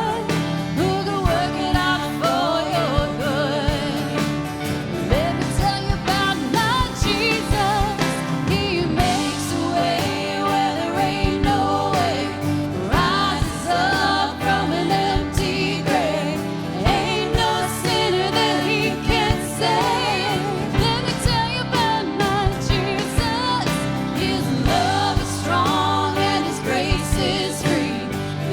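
Christian worship music: a band playing with singers carrying the melody throughout.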